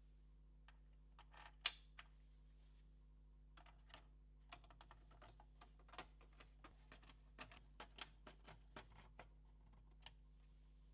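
Faint, irregular clicks and light taps of small plastic and metal PS4 Pro parts being handled during disassembly: one sharper click about a second and a half in, then a quick scattered run of taps from about four and a half to nine seconds, over a faint steady hum.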